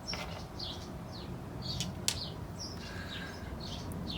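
Small birds chirping, short high falling calls several a second, with a single sharp click about two seconds in.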